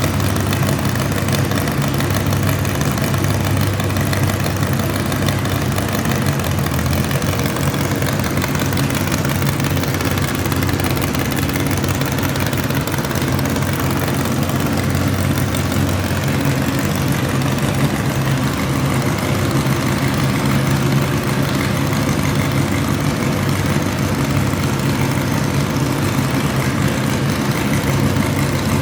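Garden pulling tractor engine idling steadily, holding an even pitch without revving.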